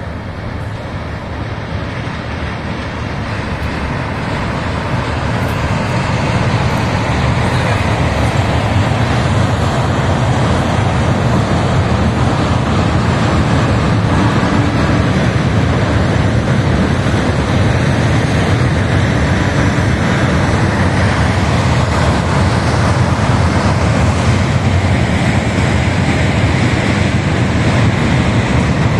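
Passenger train of LHB coaches crossing a steel truss railway bridge: a steady rumble that builds over the first several seconds and then holds.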